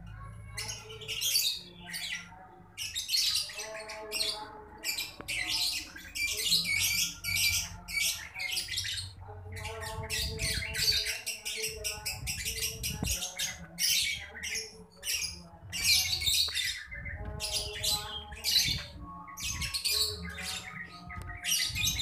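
Birds chirping and squawking in rapid, repeated high-pitched calls.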